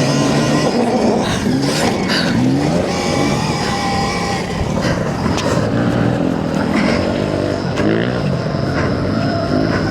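Stark Varg electric motocross bike being ridden: the electric motor and drivetrain whine, rising and falling in pitch with the throttle, over wind noise, with several sharp knocks along the way.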